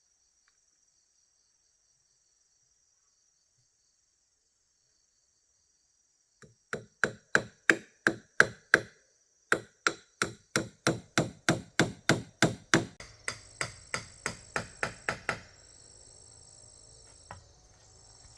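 Rapid, regular strikes of a tool on wood, about three to four blows a second, in two runs with a short break between, over a faint steady buzz of crickets.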